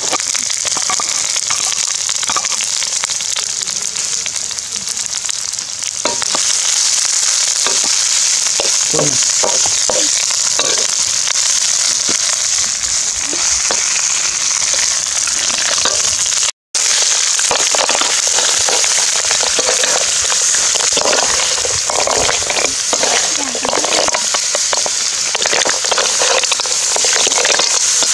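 Spice paste frying in hot oil in a metal wok: a steady sizzle that grows louder about six seconds in, with short scraping and stirring strokes against the wok.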